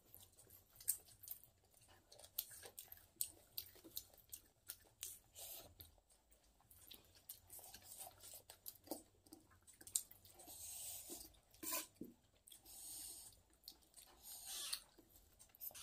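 Quiet close-up eating sounds: a person chewing a mouthful of rice eaten by hand, with many short wet smacking ticks. In the second half these are joined by a few longer soft rustling stretches.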